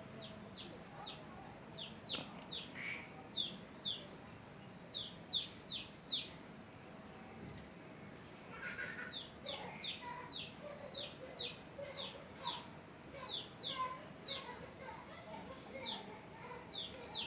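A small wild bird giving quick, sharp downward chirps in runs of two to four, pausing for a couple of seconds in the middle, over the steady high trill of crickets.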